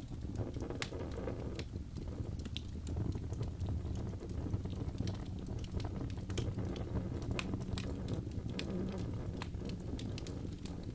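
Wood fire burning in a fireplace: a steady low rumble of the flames with irregular sharp crackles and pops from the burning logs, several a second.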